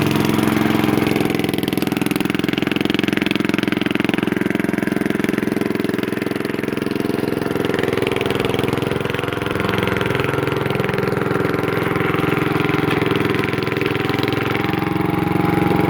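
Small gasoline engine of a vintage Pull-Away tracked garden tractor running steadily under way, easing off slightly midway and picking up again near the end.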